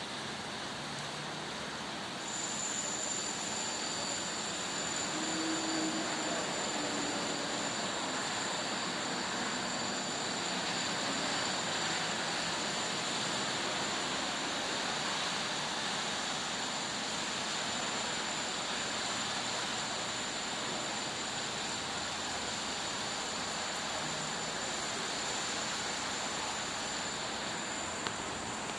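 Steady rushing noise of storm wind, with a thin high whine that comes in about two seconds in and holds steady.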